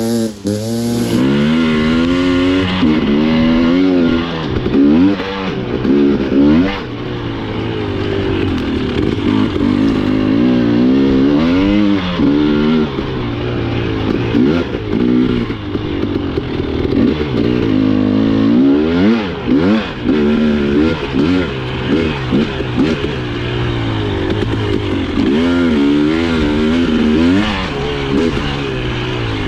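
Husqvarna TE 300i's single-cylinder two-stroke fuel-injected engine being ridden hard, its pitch rising and falling every second or two with repeated throttle blips and gear changes.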